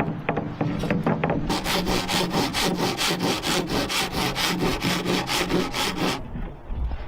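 Hand saw cutting through wood in quick, even back-and-forth strokes, about three or four a second, starting about a second and a half in and stopping near the end, after a few light knocks.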